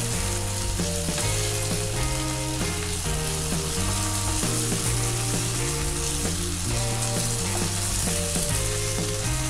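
Sausage slices, onion and spaghetti sauce sizzling in a frying pan as a spatula stirs them. Background music plays over it, with a bass line that steps from note to note.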